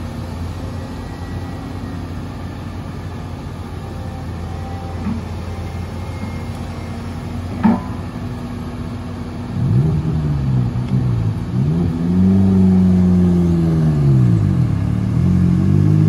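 Heavy diesel engine running steadily, then revving up and falling back several times from about ten seconds in, with a single sharp knock a little before that.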